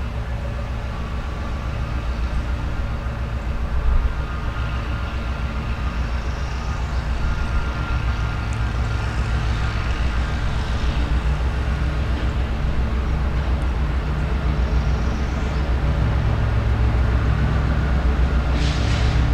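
Diesel-hauled train running: a steady low engine rumble with a fine pulsing beat. There is a brief knock about four seconds in and a short hiss near the end.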